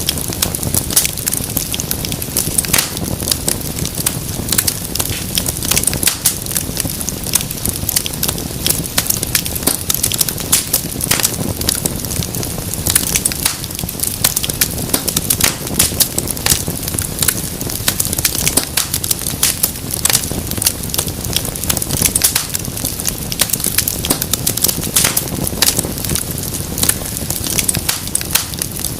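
Wood fire burning, with dense, irregular crackles and pops over a steady low rush of flame.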